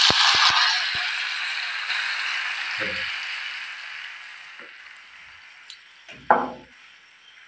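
Fish and shrimp in a hot frying pan sizzling loudly, the sizzle fading steadily over several seconds as a little water just added cooks off. A few clicks of a utensil on the pan near the start, and a short knock about six seconds in.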